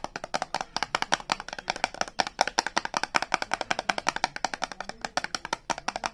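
Fingernails tapping fast on soap packaging: a quick, steady run of sharp taps, more than ten a second.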